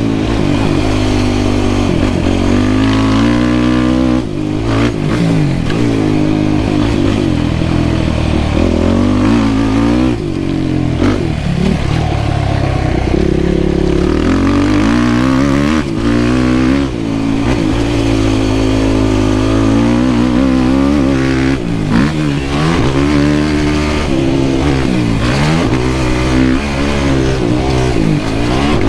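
Yamaha YFZ450R quad's single-cylinder four-stroke engine being ridden hard. It revs up and down over and over, pitch rising and falling as the throttle opens and shuts, with a few brief drops where the throttle is chopped.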